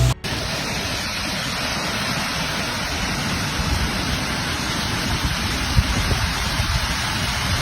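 Hailstorm with heavy rain pelting down, a dense, steady hiss of impacts.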